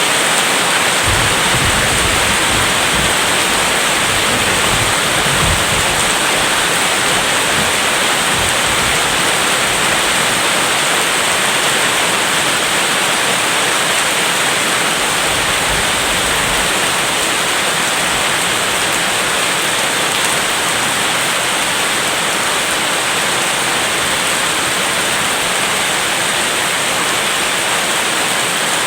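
Steady heavy rain, an even dense hiss. Low rumbles of distant thunder come in the first several seconds and again about halfway through.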